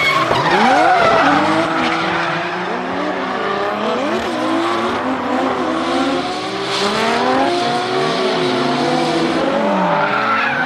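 Turbocharged Toyota Aristo drift cars on track, engines revving up and down on and off the throttle with tyres squealing. The pitches of more than one engine rise and fall across each other.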